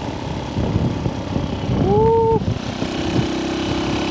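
1964 Honda C200's small single-cylinder engine running under way as the motorcycle is ridden, with a rapid, even firing beat and wind noise. A short tone that rises and then holds sounds about two seconds in. Near the end the engine settles into a steadier note.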